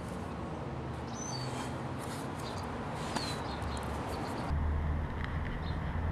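Outdoor background with a few short, falling bird chirps. A steady low rumble comes in about four and a half seconds in.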